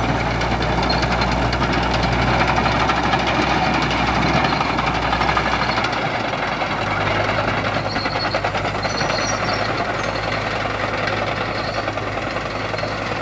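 Six-cylinder diesel engine of a Fordson County E1A Major crawler tractor running with a knocking clatter, its engine speed rising about six seconds in and then holding steady.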